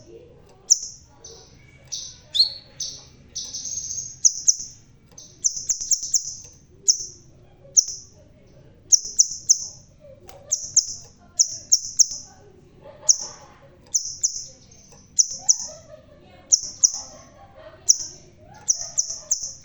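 Crimson sunbird (kolibri sepah raja) singing: a steady run of short, sharp, high-pitched chips, some single and some in quick pairs and triplets, with a brief busier twittering phrase about two to four seconds in.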